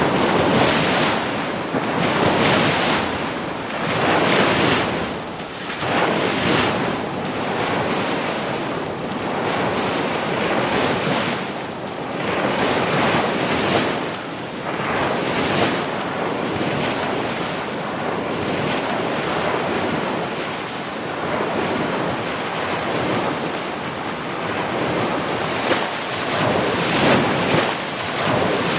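Ocean surf: waves breaking and washing in as a continuous rush that swells and eases every few seconds.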